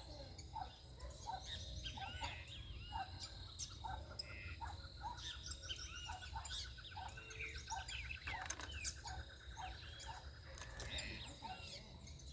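A chorus of several birds calling and chirping at once, with a steady series of short lower notes about one and a half a second throughout and a rapid trill in the middle, over a low background rumble.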